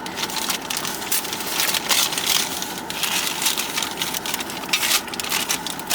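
Paper food wrappers being rustled and crinkled, with irregular sharp crackles throughout.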